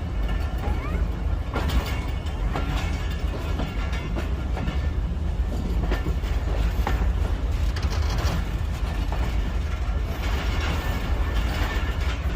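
Tezgam Express passenger train running along the track: a steady heavy rumble with irregular clanks and rattles from the wheels and cars.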